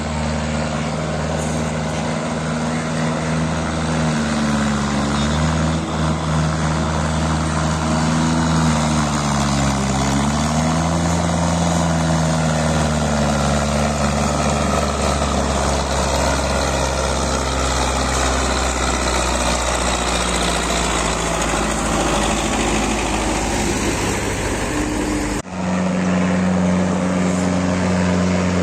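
Belarus tractor diesel engines running while pulling trailers. The engine pitch rises and falls several times. Near the end the sound cuts abruptly to a steadier engine note.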